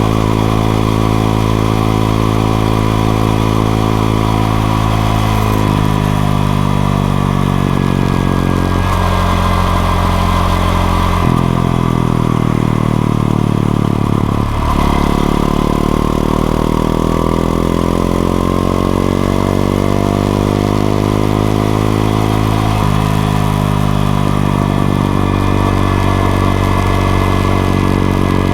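Honda XRE 190 single-cylinder four-stroke motorcycle engine under way, pulling up through the gears. Its pitch climbs, then drops abruptly at shifts about 11 s in, about 14 s in (with a brief lift-off), and again near 23 s.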